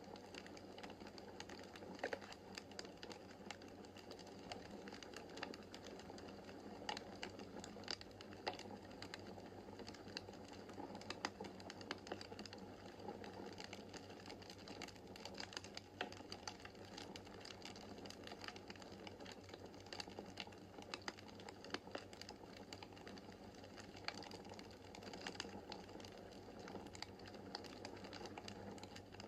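Wood fire in a fireplace crackling: frequent irregular pops and snaps from the burning logs over a soft, steady hiss of flames, with a faint low hum underneath.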